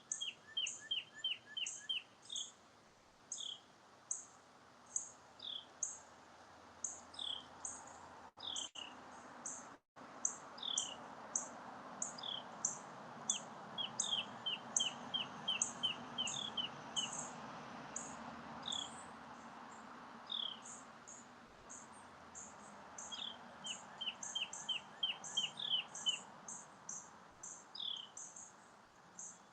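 Birds chirping: short high chirps repeated about twice a second, mixed with single falling whistled notes and quick trills of short notes, over a steady background hush. The sound cuts out briefly about eight and ten seconds in.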